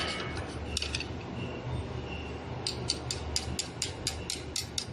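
Ratchet wrench clicking rapidly, about five clicks a second for around two seconds, while snugging the blade bolts of a cable granulator, over a low steady hum.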